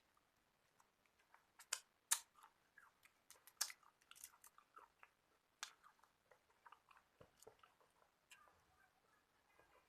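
A person chewing and biting food, irregular wet clicks and crunches, with the sharpest crunches about two and three and a half seconds in.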